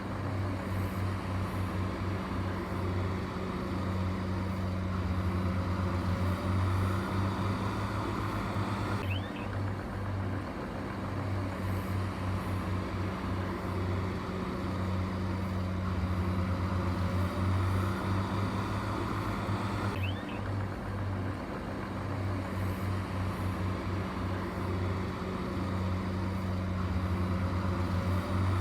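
Engine of a heavy earthmoving machine running steadily with a low throbbing hum, its pulsing rising and falling a little.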